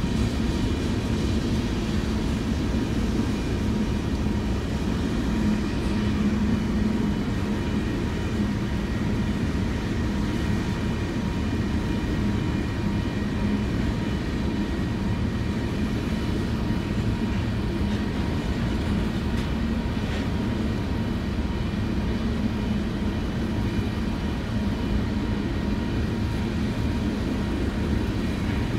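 Freight train rolling past on the rails, its cars making a steady low rumble.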